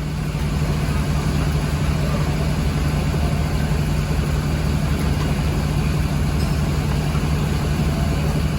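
Fishing boat's engine running steadily at an even pitch.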